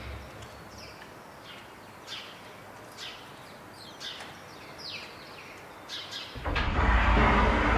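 Small birds chirping outdoors: short, falling high calls about once a second over quiet background noise. About six seconds in, a loud, steady rushing noise sets in and drowns them out.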